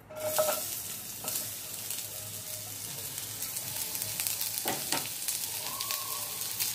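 Sliced onion and garlic cloves frying in a little hot oil in a pan, a steady sizzle that starts suddenly as they go in, with a couple of short clicks. This is the first stage of roasting them until reddish and crisp for a masala paste.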